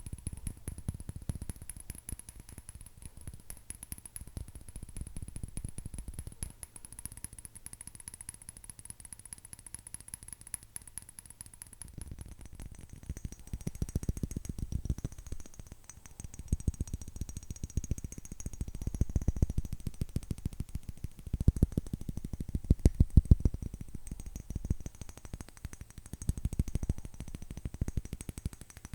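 Fingernails tapping fast on an object, a dense run of quick clicks. The tapping changes about twelve seconds in and comes in louder runs after that.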